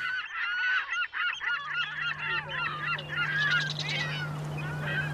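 A flock of birds calling at once, many short overlapping calls that thin out near the end, over a steady low hum.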